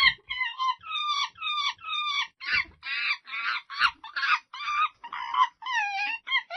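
Monkey calls: a rapid series of short, high-pitched cries, about two a second, some wavering or dropping in pitch.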